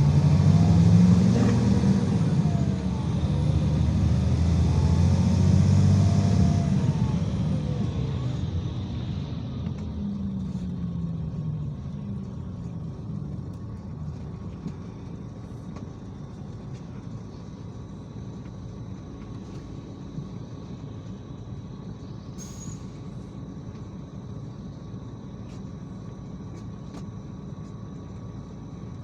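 IVECO Crossway 13M PRO city bus's diesel engine and drivetrain running under way, the engine pitch rising and falling for the first several seconds. It then eases off to a quieter, steady low rumble after about ten seconds, with one brief click and a short high tone a little over twenty seconds in.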